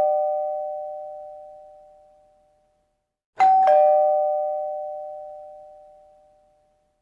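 Two-tone ding-dong doorbell chime, a high note then a lower one, each note ringing out and fading. The tail of one chime fades away, then it rings again, ding-dong, about three and a half seconds in.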